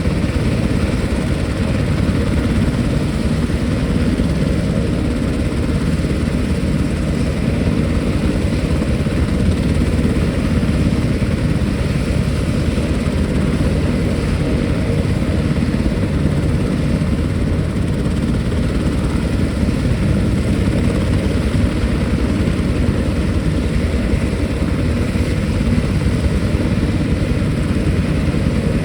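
Military helicopter running loud and steady, the rotor and turbine noise unchanging throughout.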